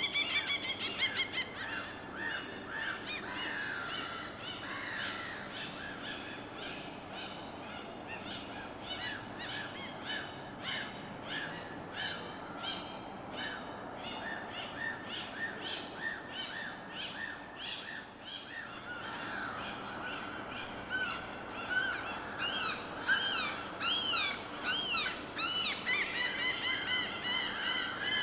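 A chorus of birds calling and chirping in quick, overlapping series, over a soft, steady background hiss. The calls grow louder and higher after about two-thirds of the way through.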